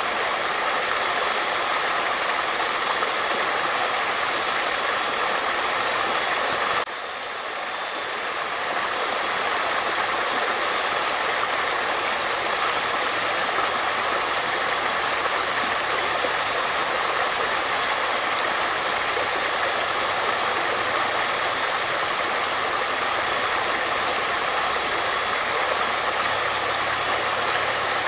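Steady rush of flowing water. About seven seconds in the level drops suddenly, then swells back over a couple of seconds.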